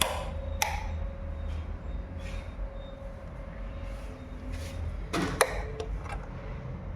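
Scattered clicks and knocks of hands working on electrical fittings and screws, with a louder pair of knocks about five seconds in, over a steady low hum.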